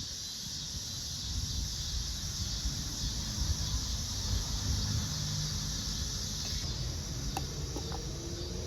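Steady high-pitched insect chorus, like crickets, over a low uneven rumble of handling noise, with a couple of faint clicks near the end.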